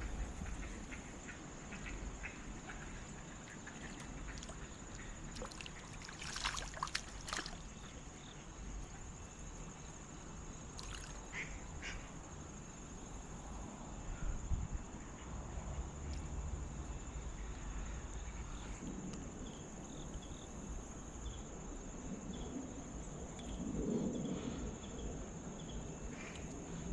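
Ducks quacking now and then over faint, trickling creek water, with a steady high-pitched whine throughout.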